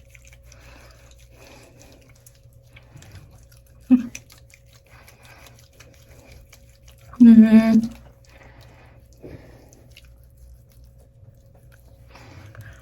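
Faint, soft wet rubbing of a facial cleanser mixed with water being worked over the skin. There is a short vocal blip about four seconds in and a brief hummed voice sound about seven seconds in.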